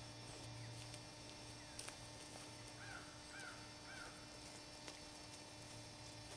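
A bird calling three times in quick succession, faint, over a low steady hum.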